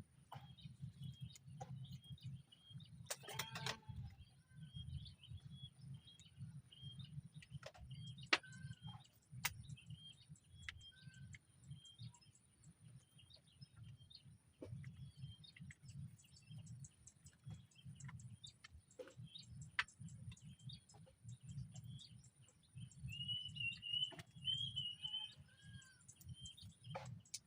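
Small birds chirping over and over, about twice a second, with a louder run of calls near the end. Beneath them are a thin steady high-pitched tone and a low rumble, with scattered clicks and a brief louder noise a few seconds in.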